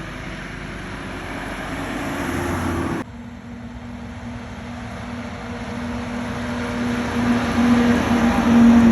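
A truck's motor running steadily. The sound changes abruptly about three seconds in, and after that a steady low hum grows louder toward the end.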